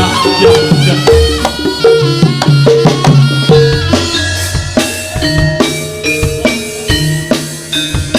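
Instrumental music from a Turonggo troupe's live band: steady drumming under a repeating pitched melody, with no singing.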